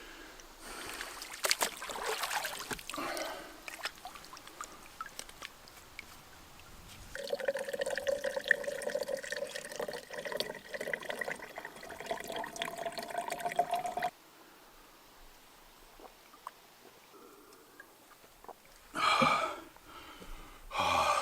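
Water pouring and trickling, with a pitched ring that rises slightly as it runs. It cuts off abruptly partway through, and two short, louder sounds come near the end.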